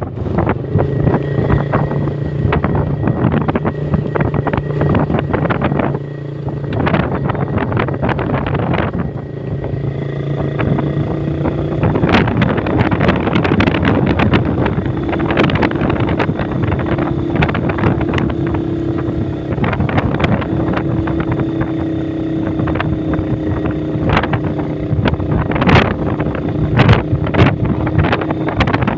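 Motorcycle engine running under way while riding, with wind buffeting the microphone. The engine note steps up to a higher pitch about halfway through.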